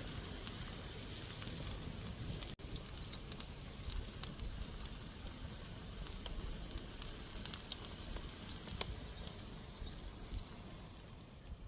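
Wood campfire crackling over a steady hiss, with small birds chirping in the background. The sound drops out for an instant about two and a half seconds in.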